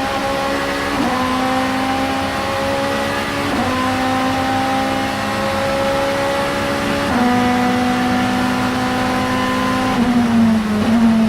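Vauxhall Vectra Super Touring race car's two-litre four-cylinder engine running hard at high, near-steady revs. Its note steps slightly in pitch four times, and near the end the loudness turns uneven.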